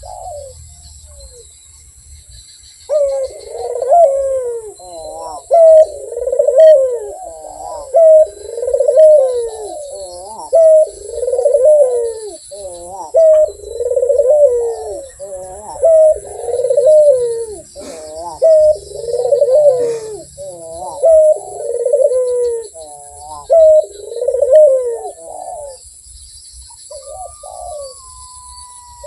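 Puter dove cooing in a long, unbroken series of loud repeated coos, about one a second, starting about three seconds in and stopping a few seconds before the end, with a short coo near the end. Faint chirps of small birds sound behind it.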